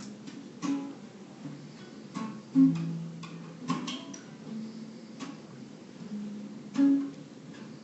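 Acoustic guitar playing a slow introduction: single plucked notes and chords about a second apart, left to ring, with two louder strokes near the middle and near the end.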